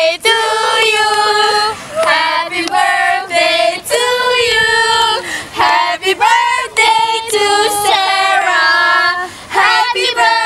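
Young women's voices singing a song together, unaccompanied, in held melodic phrases with short breaks between them.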